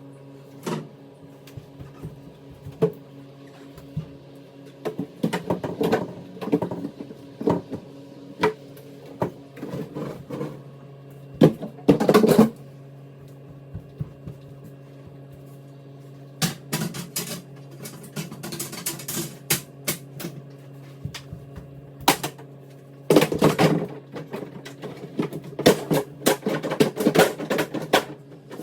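Irregular clattering, knocking and clicking of dishes and household items being handled and set down, in clusters with pauses between. A steady low hum runs underneath.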